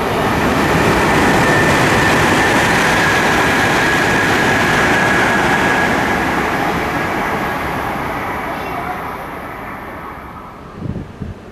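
Tohoku Shinkansen train passing at speed: a loud rush of wheel and air noise with a faint steady high whine, swelling in the first second or two and fading away over about ten seconds. Gusts of wind buffet the microphone near the end.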